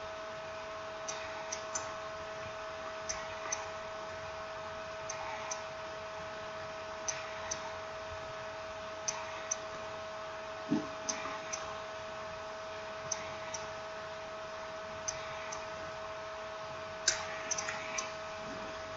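A steady high hum under a faint pair of clicks that repeats evenly about every two seconds, with one dull thump about eleven seconds in and a short burst of small clicks near the end.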